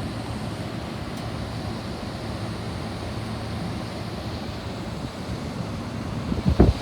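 CLADE refrigeration condensing unit running continuously with its fan at high speed: a steady rush of air with a low hum. A couple of low thumps come near the end.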